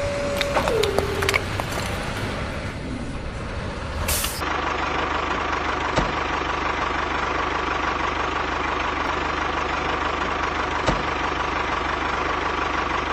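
A small motor's steady whine drops in pitch and stops about a second in. After a cut, a steady engine-like running noise with a constant high whine continues, broken by two sharp clicks.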